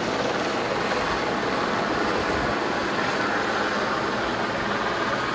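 A steady engine drone at an even level, with no breaks or changes.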